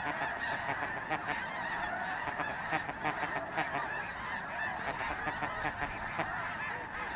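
A large flock of geese calling, a steady din of many overlapping honks.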